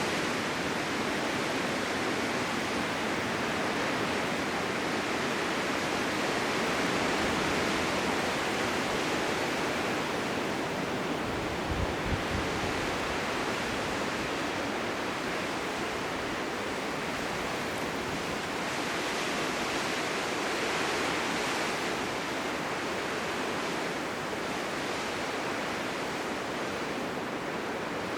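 Blizzard wind: a steady rushing hiss of wind-driven snow that slowly swells and eases, with a brief low thump about twelve seconds in.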